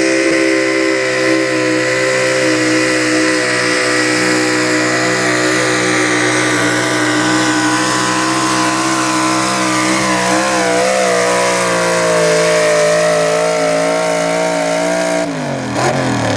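Super stock two-wheel-drive pulling truck's engine held at high revs under full throttle during a sled pull. About ten seconds in the pitch dips and wavers as the engine loads down, then holds steady again, and near the end the revs fall away sharply as the throttle is let off.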